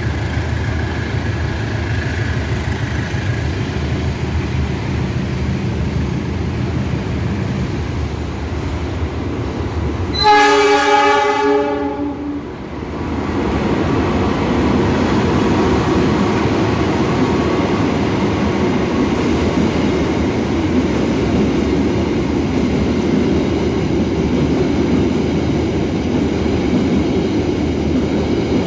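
Diesel locomotive engine running low and steady, then a train horn sounds for about two seconds, the loudest thing heard. After it a train rolls past with a steady rumble.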